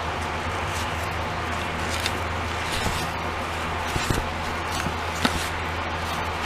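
Steady whirring hum of a running machine, with scattered light clicks and taps of plastic being handled.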